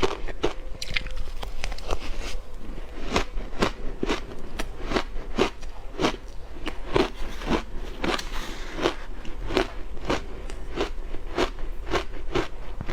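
Ice being bitten and chewed close to the microphone: a steady run of sharp crunches, about two a second.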